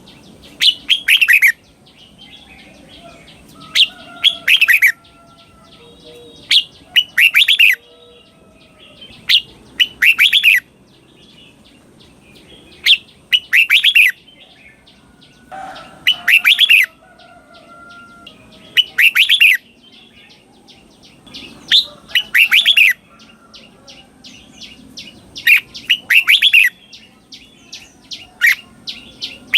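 Red-whiskered bulbul singing in the doubled (เบิ้ล) style, with short loud phrases about every three seconds. Each phrase is a quick cluster of clear notes falling in pitch. Fainter chirps fill the gaps between phrases.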